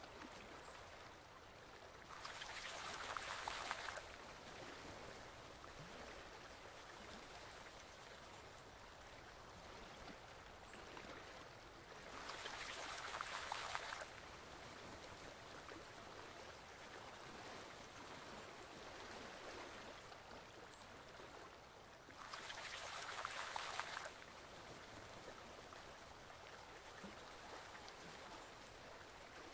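Forest stream flowing: a steady gentle rush of running water, with a louder gush lasting about two seconds that comes back three times, about every ten seconds.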